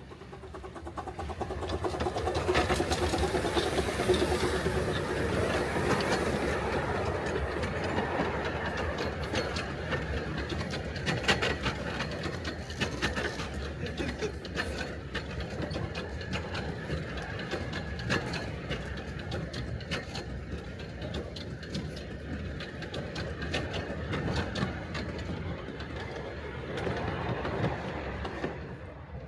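Ride-on miniature train running along its track: a steady rumble with rapid, close-set clicking of the wheels on the rails. It builds about a second in and dies away near the end.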